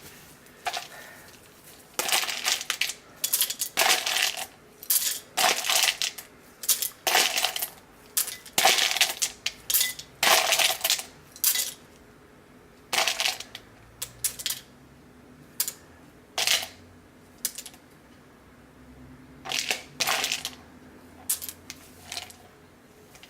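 Hard pieces of cocoa butter dropped one at a time into a container, each landing with a short, sharp clatter. They come in quick irregular succession for the first half, then more sparsely.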